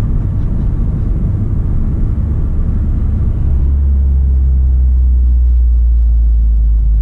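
Cabin of a tuned VW Golf R with its turbocharged four-cylinder engine, rolling slowly: a low engine and road rumble. About three and a half seconds in, a steady low drone sets in and holds.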